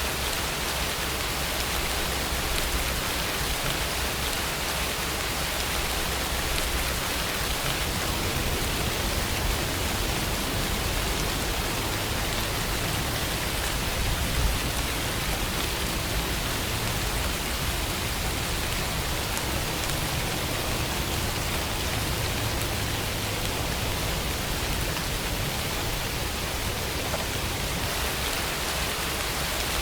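Steady rainfall: a continuous, even hiss of rain falling on surfaces.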